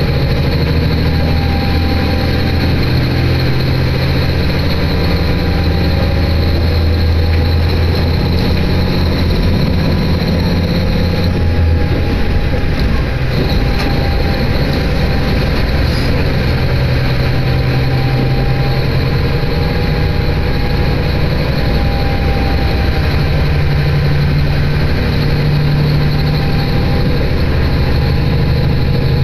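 Inside a diesel railcar on the move: a steady engine drone over the rolling rumble of wheels on rail. The engine note eases off about a third of the way through and picks up again later.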